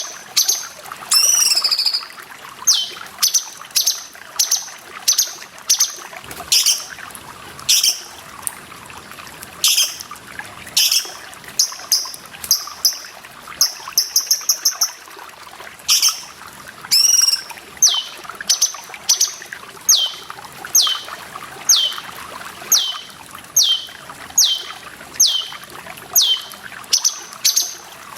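Cucak cungkok calling over and over: short notes that fall from high to lower pitch about once a second, with a quick run of rapid notes partway through, over a steady trickle of running water.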